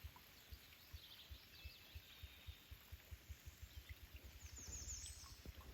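Faint outdoor ambience: distant birds chirping, with a short high trill about four seconds in, over a run of soft low thumps that come quicker toward the end.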